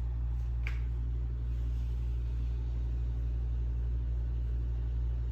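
Steady low rumble, with a brief faint high chirp about a second in.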